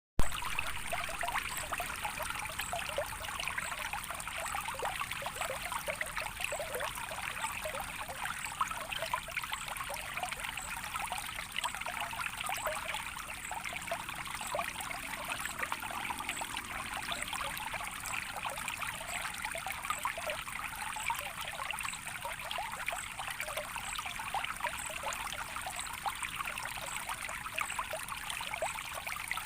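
Shallow running water trickling and babbling steadily, like a small stream.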